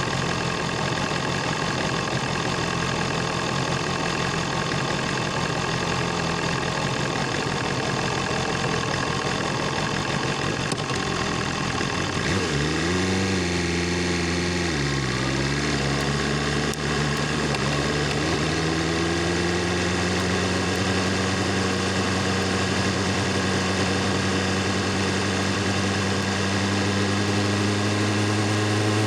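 BMW S1000RR inline-four motorcycle engine and exhaust running low and steady at first. About halfway through the revs rise, dip and rise again as the bike gets going, then climb slowly and steadily as it gathers speed.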